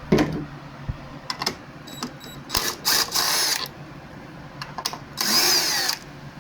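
Power drill running in three short bursts, backing out the fasteners of a lawnmower's air filter housing. A few sharp clicks and knocks of handling come before the bursts.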